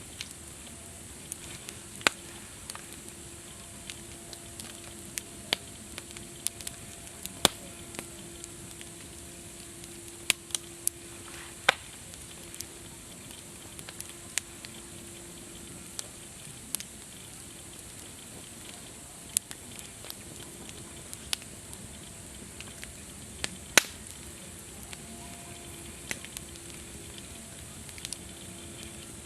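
Campfire crackling: a steady hiss with irregular sharp pops and snaps of burning wood, a few of them much louder than the rest.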